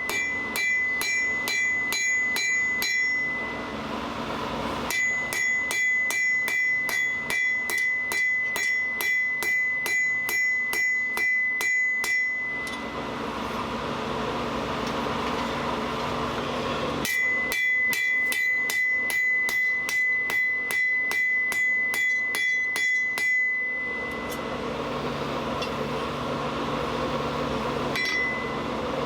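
Hand hammer striking hot steel on an anvil in runs of rapid, even blows, each with a bright ringing note from the anvil. Three long runs, then a single blow near the end, with a steady rushing noise filling the pauses between runs.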